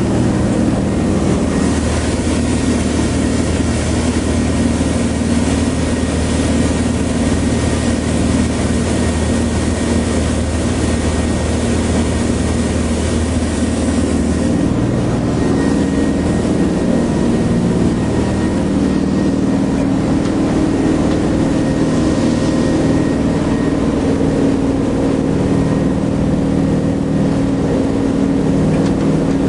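Steady drone of a 57-foot Carver motor yacht's diesel engines under way, with a hiss above the engine note. The engine's pitch shifts slightly about halfway through.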